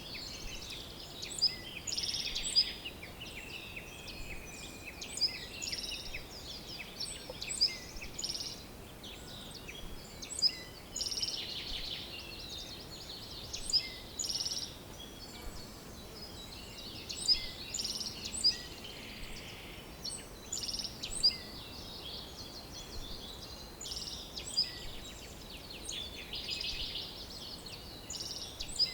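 Several songbirds chirping and trilling, with short high calls coming every second or so, over a steady faint background hiss.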